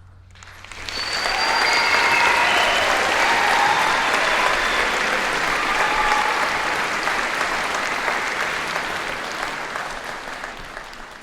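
Concert audience applauding at the end of a band piece, swelling in about a second in, with a few cheers early on the top, then slowly dying away near the end.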